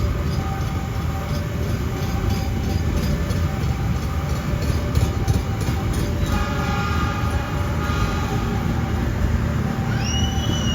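A train passing at a railway level crossing, running steadily with rapid wheel clicks over the rail joints, while the crossing's warning signal repeats a tone about once a second. A short, high horn blast sounds near the end.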